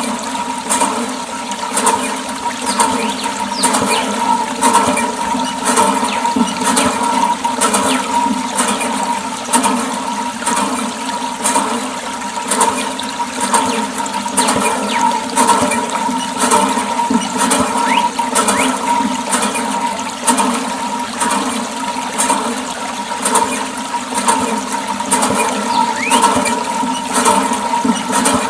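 Water gushing and splashing steadily, with regular pulses running through it and a faint steady tone.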